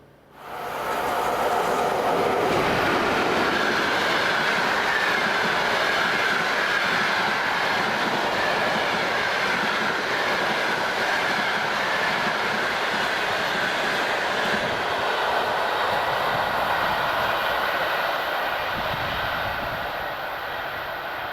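Passenger train carriage rolling along the track: steady noise of wheels on rails with a wavering high whine running through it. It comes in abruptly at the start and eases a little in the last few seconds.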